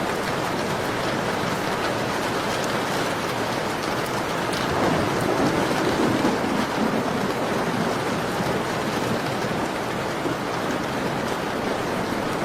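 Steady rain falling, mixed with a fireplace's crackle. The sound swells briefly in its lower range about five seconds in.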